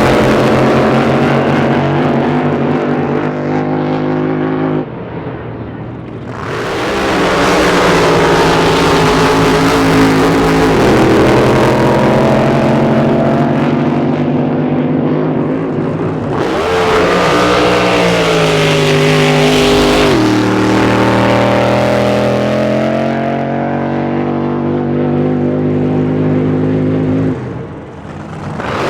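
Drag-boat racing engines running loud, their pitch rising and falling as they rev. The sound dips briefly about five seconds in and again near the end.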